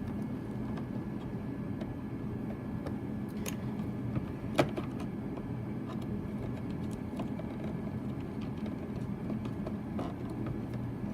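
Light clicks and taps of an RC radio transmitter being handled, one sharper click about four and a half seconds in, over a steady low hum.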